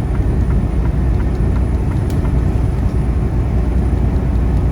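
Steady low rumble of a semi truck at highway speed, heard from inside the cab: engine and tyre noise, with a faint click about two seconds in.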